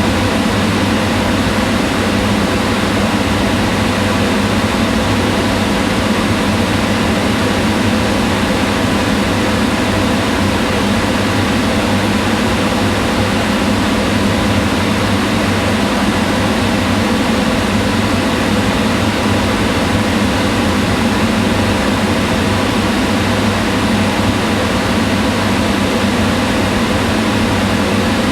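Kitchen range hood fan running steadily, a constant whooshing rush of air with a low hum underneath and no change in speed.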